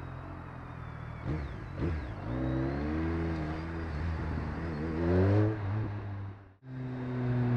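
Sport motorcycle engine revving up and down at low road speed, with two short throttle blips about a second and a half in and the pitch rising again around five seconds. The sound cuts out abruptly near the end and returns as a steadier engine note.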